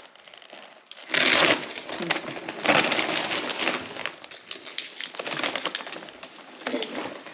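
Gift-wrapping paper rustling, crinkling and tearing as a present is unwrapped, with irregular crackles and a couple of louder rips.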